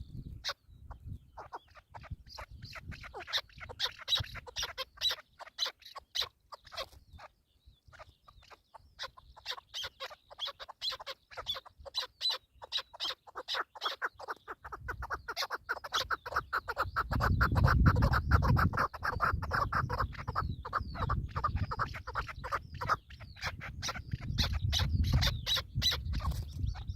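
Partridges calling in rapid, repeated clucking notes that grow louder and denser in the second half, over a low rumble from about fifteen seconds in.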